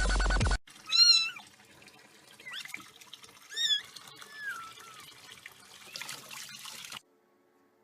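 Domestic cat meowing four times, the loudest about a second in and another loud one a few seconds later, over a faint steady hiss. Electronic music cuts off just before the first meow, and everything stops abruptly about a second before the end.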